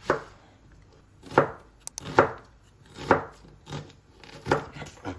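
Kitchen knife slicing food and striking a cutting board, about six or seven separate chops at an uneven pace of roughly one a second.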